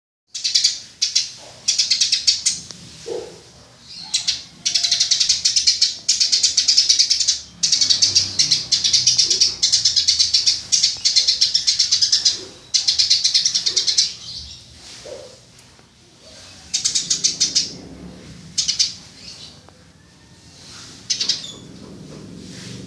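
Eurasian tree sparrow chirping: rapid strings of high, sharp chirps in bursts of one to two seconds with short pauses between, thinning out to scattered chirps in the second half.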